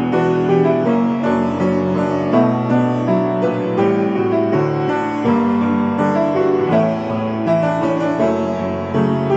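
Background piano music, a gently moving melody with accompanying chords.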